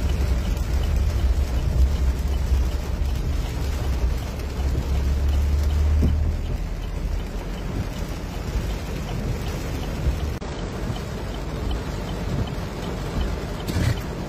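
Heavy rain pelting a car and floodwater splashing against it as it drives through deep water, heard from inside the cabin. A deep rumble underlies it for roughly the first six seconds, then it settles into a steady hiss of rain and water.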